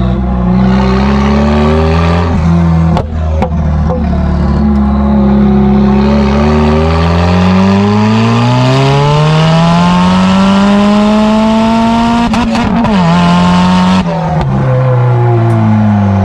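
Straight-piped Nissan S15 Silvia's turbocharged SR20 four-cylinder being driven hard: the revs fall, a gear change comes about three seconds in, then a long pull with the revs climbing for about six seconds up to another shift, after which the revs drop and start climbing again.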